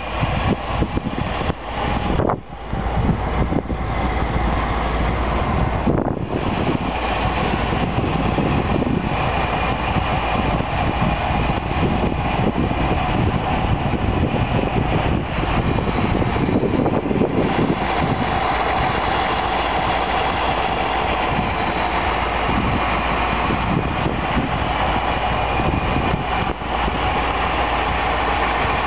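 1955 Ford Thunderbird's Y-block V8 running at a steady idle, heard up close under the open hood.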